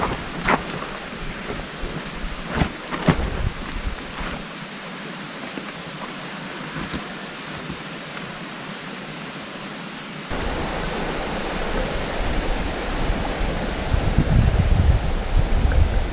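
Steady rush of falling water from a waterfall, with a high steady insect drone and a few sharp knocks in the first few seconds. About ten seconds in the sound changes abruptly and the water noise becomes louder and deeper, with a low rumble.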